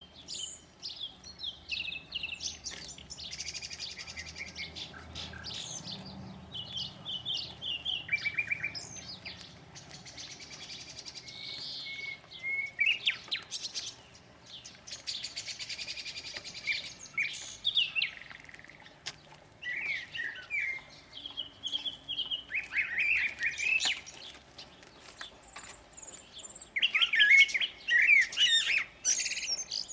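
Several songbirds singing in spring, phrase after phrase of high chirps, rapid buzzy trills and short whistles, the chirping loudest and densest near the end.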